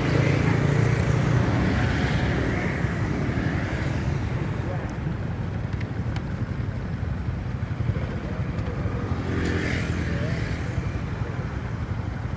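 Road traffic: a motor vehicle's engine running close by at the start, and another passing about ten seconds in, over a steady rumble of traffic.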